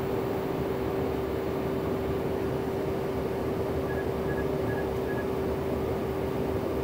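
Cabin noise of a CRJ-900 in flight: steady rush of air and its rear-mounted GE CF34 turbofans, with a steady hum tone running through it. About four seconds in come four short faint high beeps, evenly spaced.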